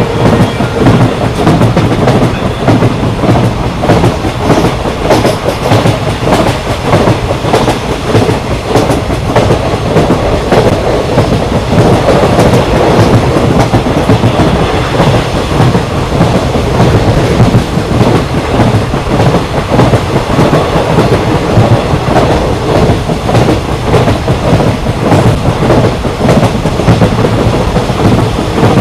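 Patna Kota Express passenger train running along the track, a loud steady rumble with the wheels clattering over the rail joints.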